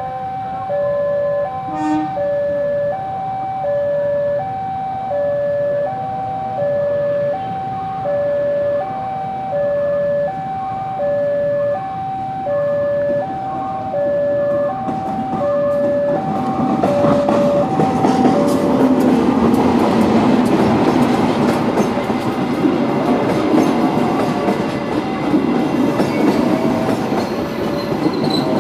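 A level-crossing warning alarm sounds a steady electronic high–low two-tone chime. From about sixteen seconds in, a CC 203 diesel-electric locomotive and its passenger coaches pass close by. The engine and the wheels rattling over the rails grow loud and drown out the alarm.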